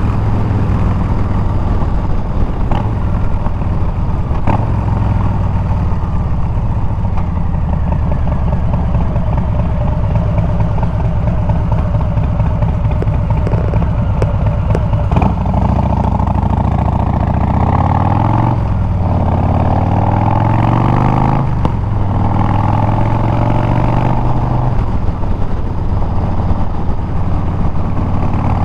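Harley-Davidson Milwaukee-Eight 114 V-twin running through Bassani straight pipes while riding. It holds a steady cruise for the first half, then revs up and down through the gears, its pitch climbing and dropping at each shift.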